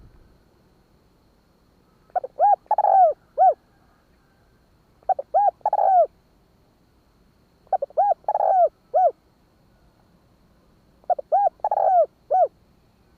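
Spotted dove cooing: four phrases about three seconds apart, each a quick run of short coos around one longer, rougher coo.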